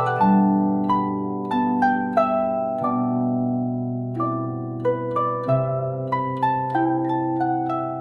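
Chinese-style instrumental music: a guzheng plucking a slow melody of single ringing notes over long held low notes.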